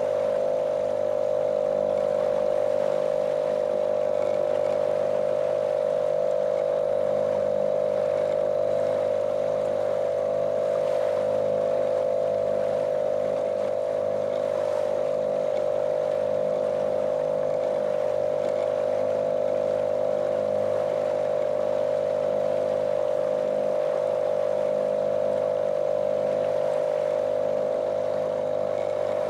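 Small motorboat's engine running at a steady, unchanging speed, a monotonous drone.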